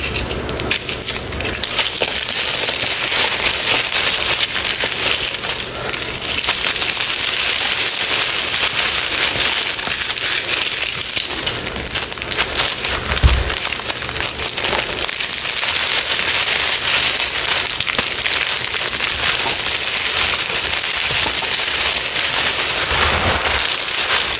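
Crunchy material being crushed: a continuous dense crunching and crackling, with a soft low thump about halfway through and another near the end.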